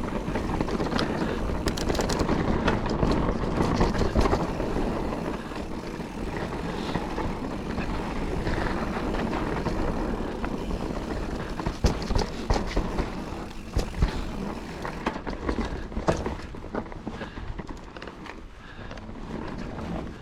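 Mountain bike riding over a dry, loose trail: a steady rumble of tyres on dirt and stones, with the bike rattling and knocking over bumps, a few hard knocks about halfway through. It is quieter near the end.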